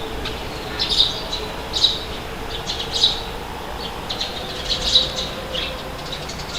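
Birds giving short, high chirps and squawks about once a second over a steady rush of wind.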